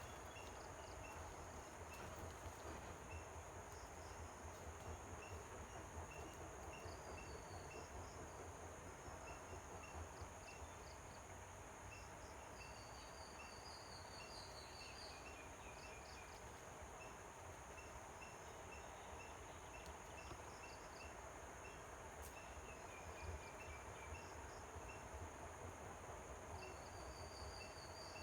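Faint outdoor ambience: a steady high insect drone with a small chirp repeating about once or twice a second, and a few brief bird trills about halfway through and near the end.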